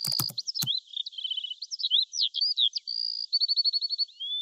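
Bird song: a varied run of short chirps, rising and falling whistled sweeps and two quick rattling trills, with a few sharp clicks in the first second.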